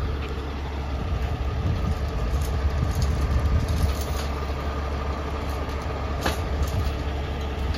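Crane tow truck's engine running steadily: a low rumble with a faint steady whine above it. A single click sounds about six seconds in.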